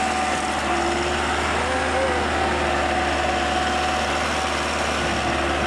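Massey Ferguson 375 tractor's four-cylinder diesel engine running steadily while pulling a heavily loaded sugarcane trolley, a constant drone with a steady whine over it.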